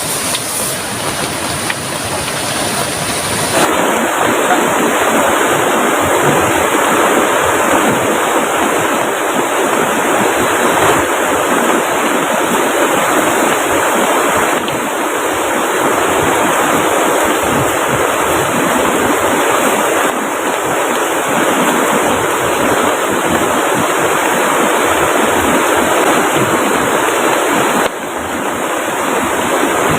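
Heavy rain and rushing river water in a steady, dense hiss, stepping up louder about four seconds in.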